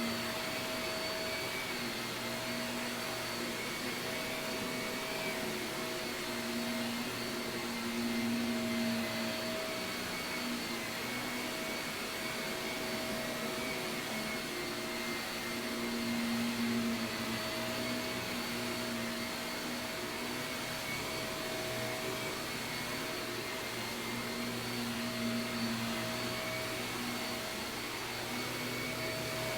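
Shark vacuum cleaner running continuously over carpet, a steady motor hum with whining tones that swell and fade every few seconds.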